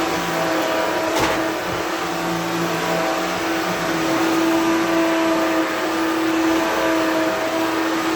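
Vacuum cleaner running steadily, a motor whine over a rushing airflow, with a brief knock about a second in.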